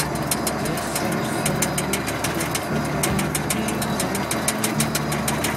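Heavy Ford panel truck heard from inside the cab while driving: a steady engine and road drone with a rapid, even rattling knock, the cab and hood shaking on a very rough ride.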